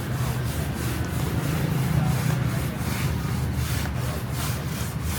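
Repeated rubbing strokes, about two or three a second, as a surface is worked by hand, over a steady low hum.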